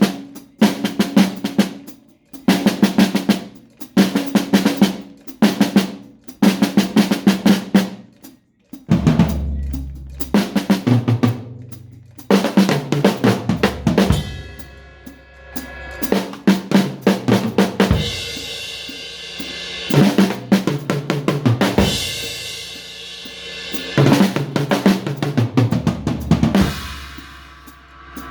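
Drum kit playing quick snare and tom fills in short bursts about once a second. About nine seconds in, a deep bass line and held chords come in under fills that recur roughly every two seconds.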